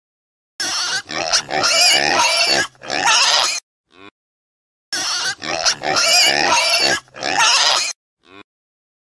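Pig oinking, in two bouts of about three seconds each with silence between.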